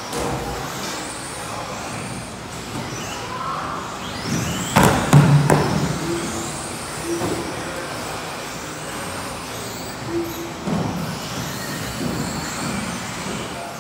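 Electric RC racing cars running laps, their brushless motors whining and rising and falling in pitch over a steady background hiss. About five seconds in comes a loud, sharp clatter of knocks.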